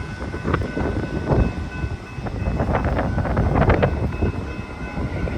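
Commuter passenger train passing at speed close by: wheels knocking over the rail joints in quick, uneven clatters over a steady running noise, loudest about three to four seconds in.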